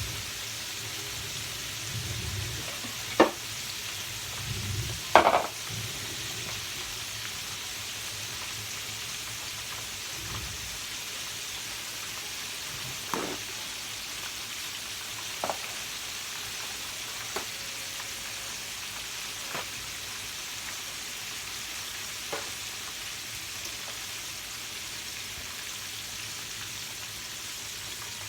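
Flour-coated pork chops deep-frying in hot oil: a steady sizzle with sharp clicks every few seconds, the two loudest in the first six seconds.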